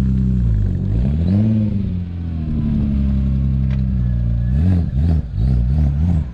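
Car engine idling, revved once about a second in, then blipped rapidly about five times near the end before dropping back to idle.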